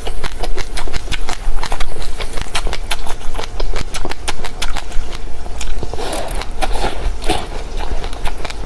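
Close-miked crunching and chewing of dry seeds: a dense, irregular run of sharp crackles and clicks over a low hum.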